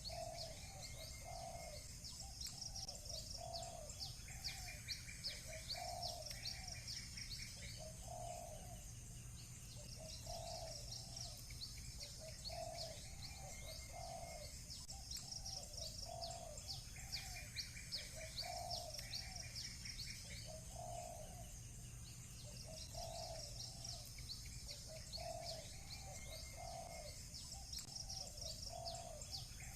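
Doves cooing in short repeated phrases, over a constant chorus of small birds chirping fast and high, with occasional brief trills and a low steady hum underneath.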